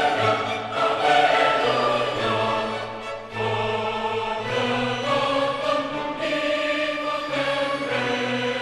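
Background music with sustained choir-like voices over orchestral chords that change about once a second.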